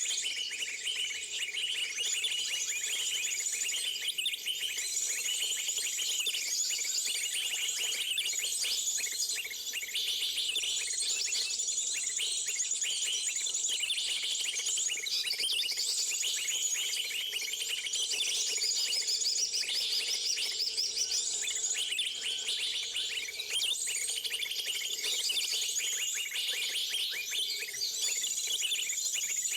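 Many small birds chirping and calling at once, a dense, continuous chatter of short high notes. A thin, very high steady whine comes and goes behind them.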